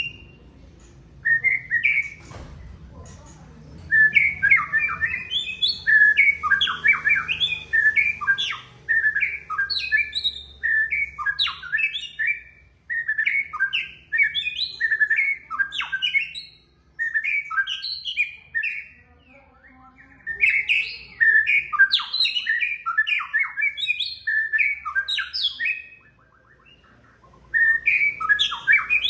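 White-rumped shama (murai batu) singing: long runs of fast, varied chirps and sliding whistles, broken by short pauses of a second or so.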